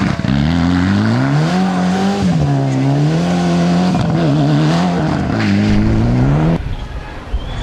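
Rally car engine revving hard, its pitch climbing and dropping again and again as the driver accelerates, lifts and changes gear, with a quick wobble in revs partway through. The engine sound cuts off abruptly near the end.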